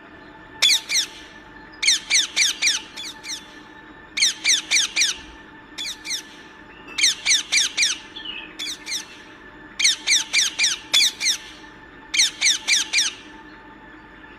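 A parrot squawking in bursts of several quick, harsh calls, each call sliding down in pitch, with a burst every second or two until near the end.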